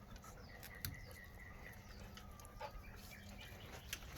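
Dogs chewing frozen raw tilapia, with a few sharp crunches, and faint bird chirps in the background.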